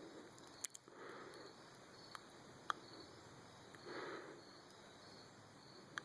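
Crickets chirping faintly in a steady, even rhythm. Soft swells of noise come about every three seconds, and a few sharp clicks sound, the loudest near the middle.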